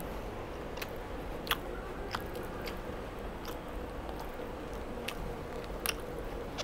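A person chewing chicken wing, with scattered soft crunches and mouth clicks over a faint steady hum.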